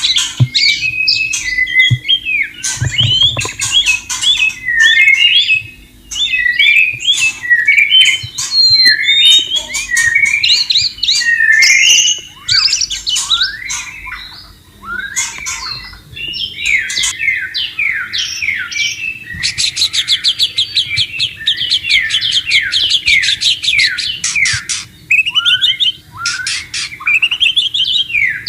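White-rumped shama singing a long, varied song of rich whistled phrases, slurred notes and chatters. A fast run of rapidly repeated notes comes about two-thirds of the way in.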